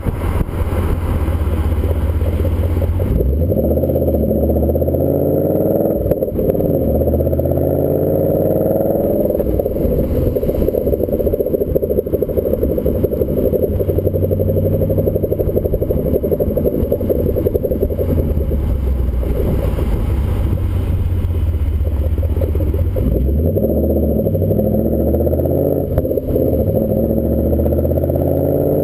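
2014 Ford Mustang GT's 5.0 V8 exhaust note through a Roush axle-back exhaust, a deep, loud rumble while driving, its pitch sweeping up and down a few times as the car speeds up and eases off.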